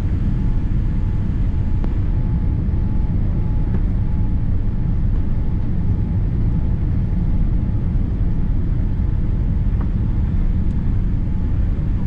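Steady cabin rumble inside a Boeing 787-8 airliner on approach: airflow over the fuselage and the General Electric engines, heard from a window seat.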